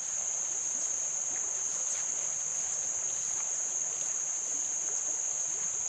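Insects in the creekside vegetation shrilling in a steady, unbroken high-pitched chorus over a low, even hiss.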